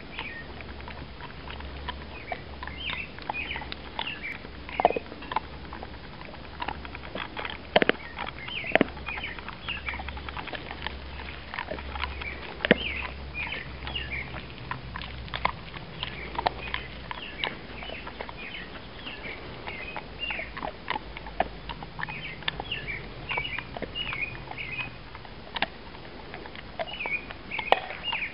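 Birds chirping in quick, high clusters over and over, with scattered light taps and clicks in between.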